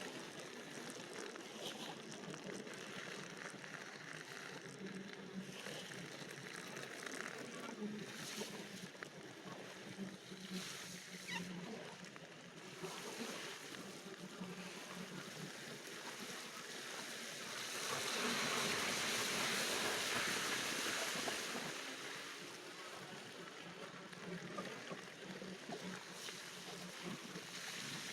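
Wind noise on the microphone over surf along the shore, with a louder rush of noise for about four seconds past the middle.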